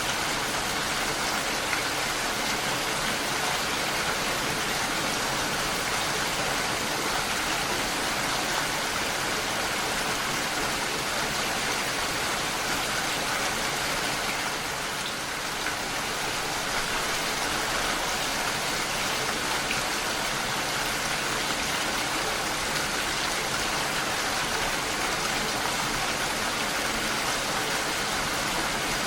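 Steady, even rainfall, a dense hiss of drops with no single drops standing out.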